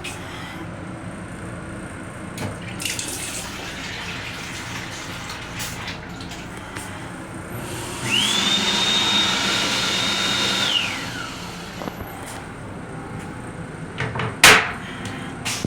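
Restroom toilet on an M7 railcar flushing: a sudden rush with a high whine that climbs, holds for a few seconds, then slides down and stops. A sharp knock follows near the end, over the steady running noise of the train.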